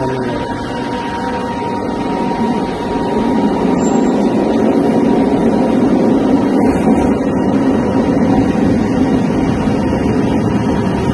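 Light-rail train running: a steady rumble that grows louder about three seconds in and then holds, with a thin steady whine above it.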